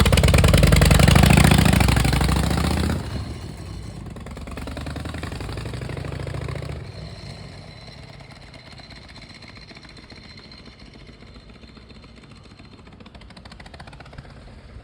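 Harley-Davidson Shovelhead air-cooled V-twin running loud with a low, pulsing beat as the motorcycle pulls away, dropping off sharply about three seconds in, swelling again briefly as it accelerates, then fading into the distance.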